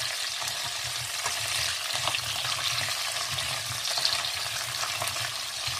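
Vienna sausages and carrot slices sizzling in hot oil in a nonstick frying pan while being stirred with a metal spoon, a steady frying hiss with occasional light clicks of the spoon against the pan.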